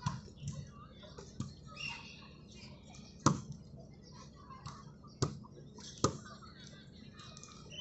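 Three sharp smacks, about three, five and six seconds in, over faint background voices and chatter.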